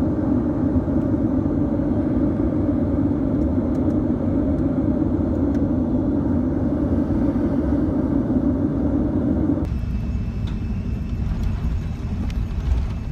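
Steady rumble and roar of a jet airliner's engines in flight. About ten seconds in it changes abruptly to a lower, rougher rumble.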